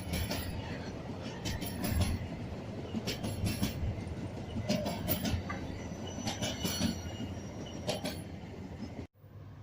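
A train rolling past, its wheels clattering with repeated sharp clicks over the rail joints and a faint high squeal now and then. The sound cuts off suddenly about nine seconds in.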